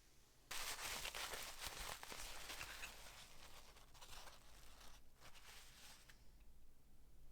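A dry, rough scraping noise starts suddenly about half a second in, is strongest over the next couple of seconds, then tapers off and stops around six seconds.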